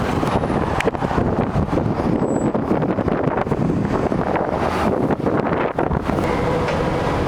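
Heavy wind buffeting the microphone on a moving vehicle, a dense steady rush with frequent short gusts and the vehicle's running noise underneath.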